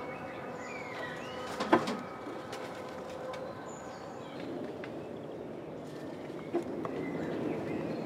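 Birds chirping over a steady outdoor background, with a sharp knock a little under two seconds in and a smaller one about six and a half seconds in.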